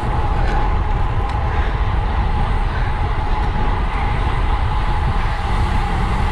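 Wind rushing over the microphone of a camera on a racing road bike at speed, a steady low rumble with a thin constant whine above it.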